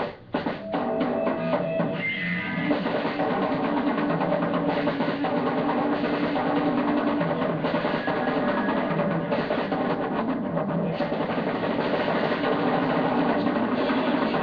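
A small rock band playing loud on a drum kit and electric guitar through an amplifier cabinet, starting abruptly with a hit and running on steadily.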